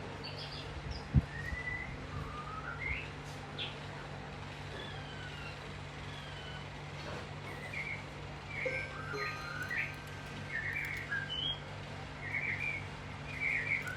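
Birds chirping and whistling with short, gliding notes, more often in the second half, over a steady low hum. One sharp knock sounds about a second in.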